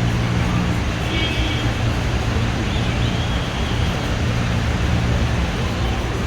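Steady roar of rushing river water at the Hogenakkal falls, with a faint high whistle-like tone about a second in.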